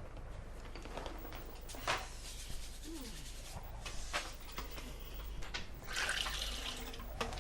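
Gusty wind blowing, with several short knocks or rattles scattered through it.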